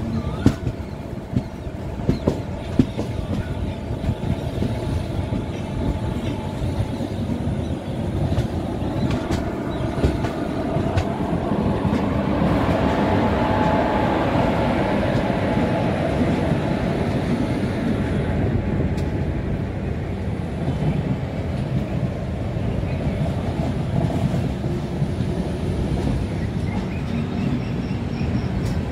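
Express passenger train running along the track: steady rumble of the moving coach with wheels clicking over rail joints, a few sharp clicks in the first seconds and a swell in loudness for a few seconds midway.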